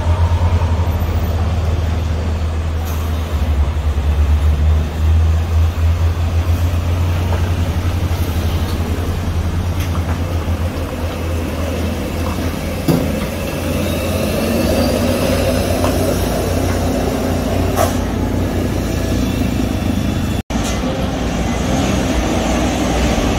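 Heavy truck engine running with a deep, steady low rumble on a climb. A little past halfway, the engine note rises over several seconds as a vehicle speeds up. Near the end the sound cuts out for an instant.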